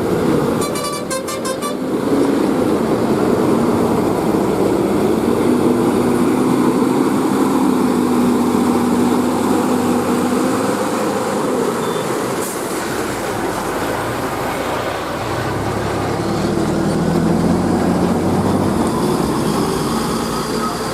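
Heavy stone-hauling trailer trucks running along a highway, a steady mix of diesel engine and tyre noise whose engine pitch shifts as they pass. A horn sounds briefly near the start.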